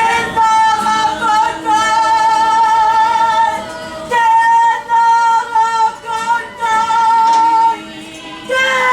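A kapa haka group singing a Māori waiata, with women's voices prominent. The notes are held in long phrases, with short breaks about four and eight seconds in.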